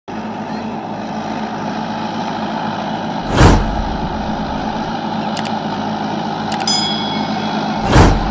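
Mahindra 475 DI tractor's diesel engine running steadily under load. Two short, loud rushes of noise come about three seconds in and again near the end, with a couple of clicks and a brief metallic ring between them.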